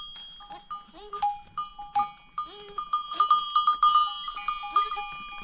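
Bells hung on goats and sheep clanking and ringing irregularly as the herd moves, with a few short animal calls among them.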